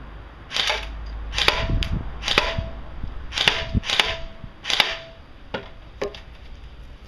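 Battery-powered airsoft gun firing about six single shots, roughly one a second, each a short sharp crack, with a few fainter clicks between them.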